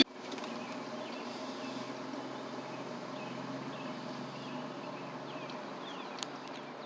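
Faint, steady outdoor background with a few scattered small bird chirps.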